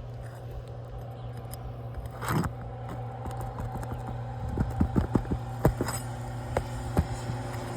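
A metal roofing pry tool scraping and clicking against brittle asphalt shingles as it works under them to break the seal: one rasping scrape a couple of seconds in, then a run of sharp clicks and taps. A steady low hum runs underneath.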